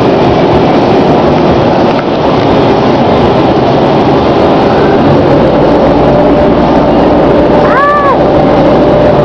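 Automatic car wash running, heard from inside the car: a loud, steady rush of water spray and machinery with a faint hum under it. Near the end comes a brief rising-and-falling tone.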